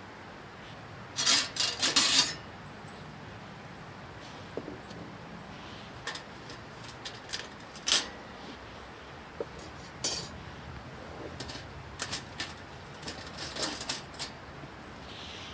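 Metal camp gear clinking and clicking as it is handled: a quick cluster of sharp clinks about a second in, then scattered single clicks.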